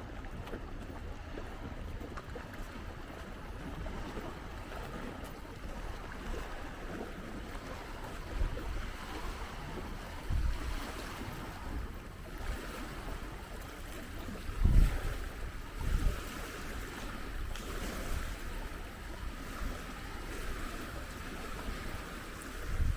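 Wind buffeting the microphone in brief low gusts several times, the strongest about halfway through, over a steady outdoor hiss.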